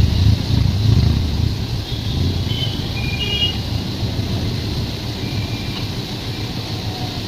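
Moving train: a steady low rumble, a little louder in the first second or so, with a few brief high squeaks around the middle.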